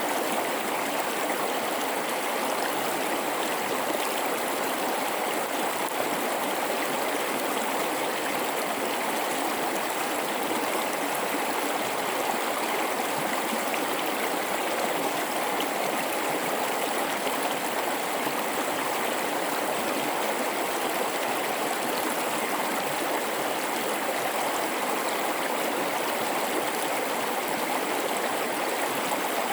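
A river running through a rocky gorge: a steady, even rush and babble of water with no pauses or changes.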